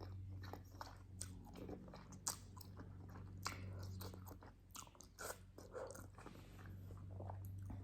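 A person chewing a mouthful of ramen noodles, faint wet mouth clicks coming irregularly.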